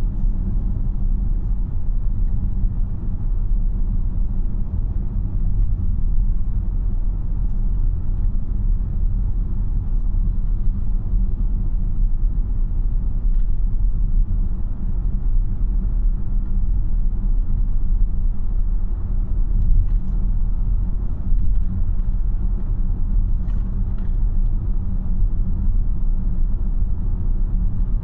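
Steady low road and tyre rumble inside the cabin of a moving 2026 Tesla Model Y AWD, with no engine note since the car is electric. A few faint ticks sound now and then.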